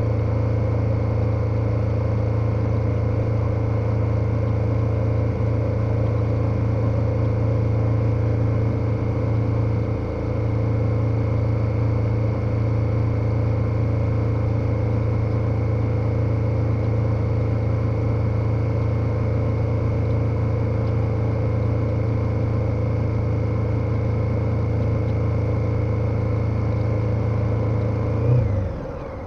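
KTM 1290 Super Adventure's V-twin engine running at a steady cruising pitch, with a brief dip about ten seconds in. Near the end there is a short blip, then the engine note drops away quickly.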